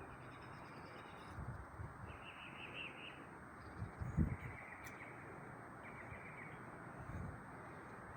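Birds chirping softly in short quick runs, three times, over a steady hiss, with low thumps, the loudest about four seconds in.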